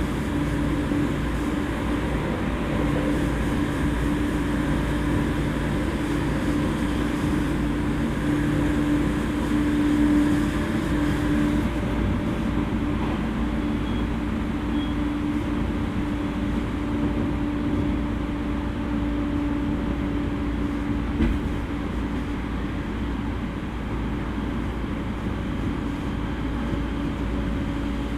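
JR East E231 series electric train running at a steady pace, heard from inside the car: a continuous rumble of wheels on rail with a steady motor and gear hum. There is one short click about three-quarters of the way through.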